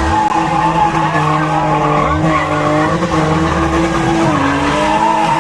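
Car engine held at high revs with its tyres squealing on asphalt, as in a drift or burnout; the pitch stays steady, dipping briefly about four seconds in.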